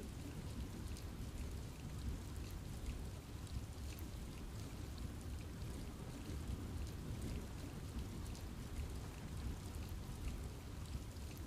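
Steady rain falling in a forest, an even wash of noise with individual drops landing close by as scattered sharp ticks.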